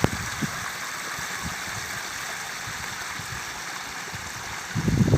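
A steady outdoor hiss with a few faint low thumps. Near the end, wind starts buffeting the microphone with a loud low rumble.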